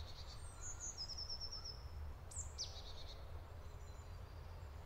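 Songbirds calling in a forest: a quick run of high, evenly spaced notes about a second in, then two short falling chirps, over a faint steady low rumble of outdoor background noise.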